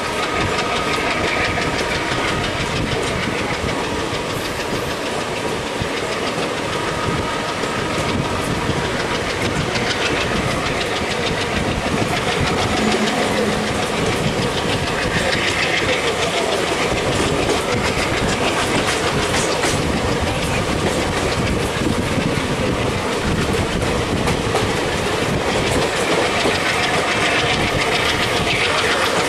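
Running noise of an Indian Railways express passenger train heard from an open coach door: a steady rumble with rapid clatter of wheels over rail joints, while an electric multiple unit (EMU) local train passes close alongside on the next track.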